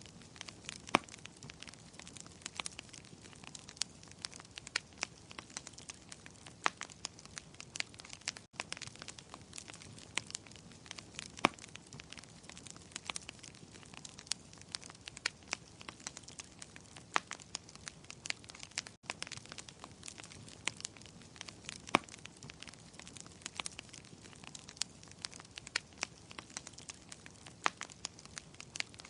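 Wood fire crackling in a fireplace: a steady soft hiss with frequent sharp pops and snaps at irregular intervals. The sound drops out for an instant twice.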